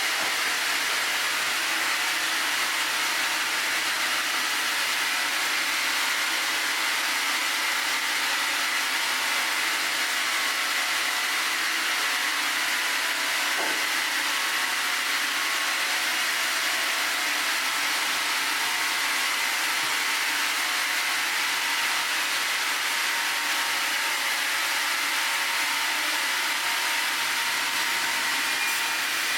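Sawmill running steadily while milling a Kaizuka juniper log: a constant noise with a steady high whine.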